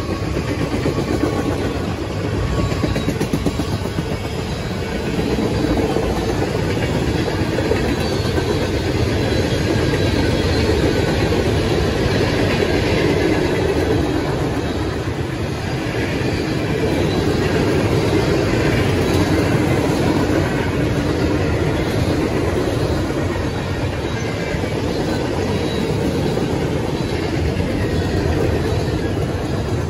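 Freight train cars rolling past at trackside: a steady, loud rumble of steel wheels on the rail from a string of tank cars, covered hoppers and boxcars.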